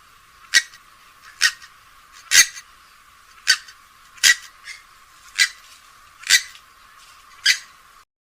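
Recorded calls of a rail such as a swamphen or moorhen: a series of eight short, sharp calls about one a second, stopping abruptly near the end.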